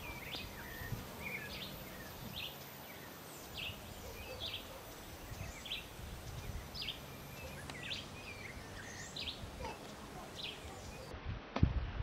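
A small bird giving short, high chip notes, repeated about once or twice a second, over a steady outdoor hiss. A short sharp knock near the end.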